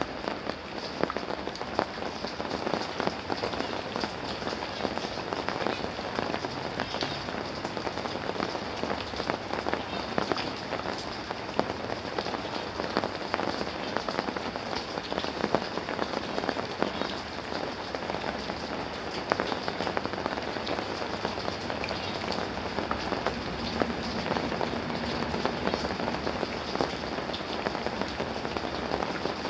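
Rain falling steadily, a dense patter of many individual drops.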